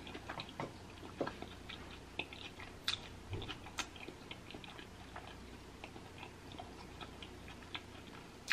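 Close-up, wet chewing of boiled egg, with scattered soft clicks and smacks of the mouth, a few a second.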